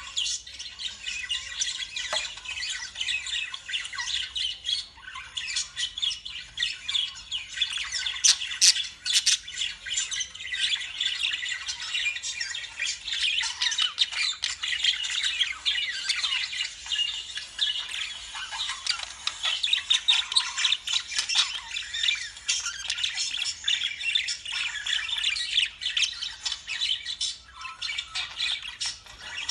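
Lovebirds calling without a break, many short high calls overlapping one another, with a few sharp clicks about a third of the way in.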